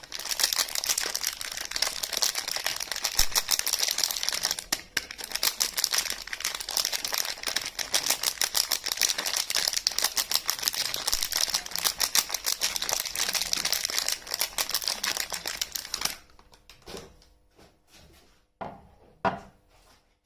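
Soap packaging being unwrapped: dense, continuous crinkling and tearing of wrapper for about sixteen seconds, then a few separate rustles and two short louder handling sounds near the end.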